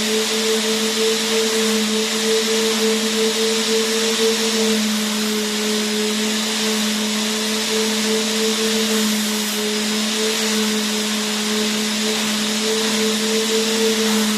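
Vacuum cleaner motor running continuously: a steady hiss of rushing air over a constant motor hum.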